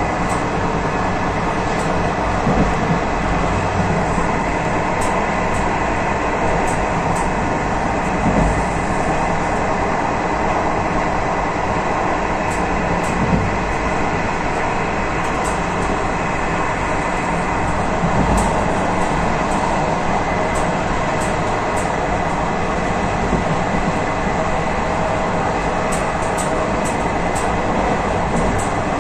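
Moving train heard from the train manager's cabin at its rear: a steady rumble of wheels running on the rails, with short sharp ticks coming in clusters now and then.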